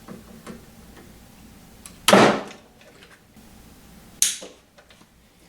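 Nylon cable ties being pulled tight through their locks: a quick zip about two seconds in and a shorter, higher one about two seconds later.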